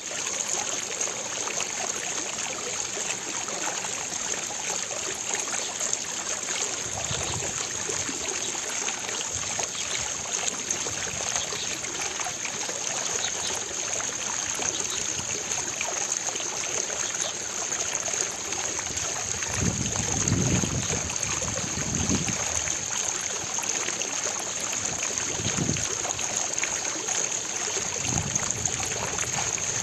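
Steady rushing, splashing water with no let-up, with a few brief low rumbles around two-thirds of the way through.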